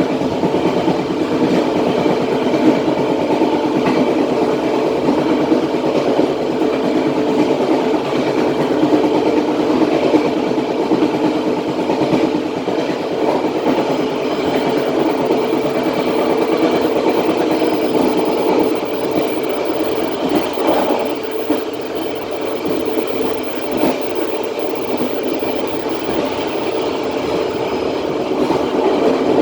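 Matarmaja passenger train running along the track, heard from the rear of the last carriage: a steady rumble of wheels on rails with some clickety-clack.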